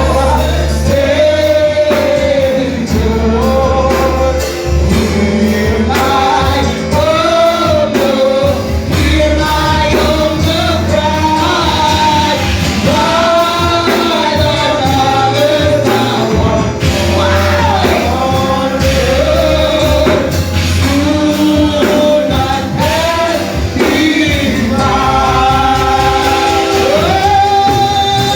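Gospel worship music: voices singing over a steady bass accompaniment.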